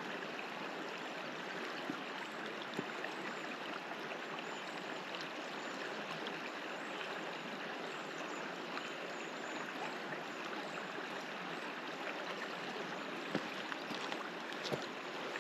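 River water running steadily over its bed, an even rushing wash, with a few light knocks near the end.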